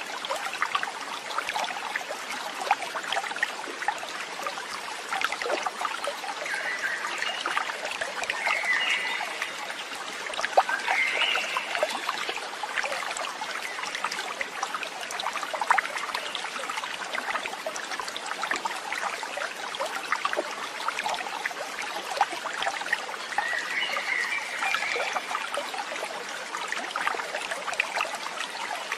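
Water trickling and splashing steadily, like a small stream, with short chirping calls, likely birds, heard in three brief spells.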